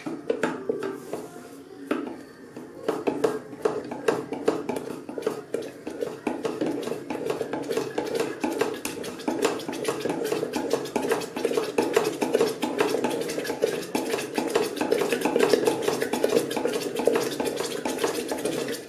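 A spoon stirring thickening baby porridge inside an electric kettle, with rapid clinks and scrapes against the kettle's inner wall that pick up about two seconds in and keep going steadily.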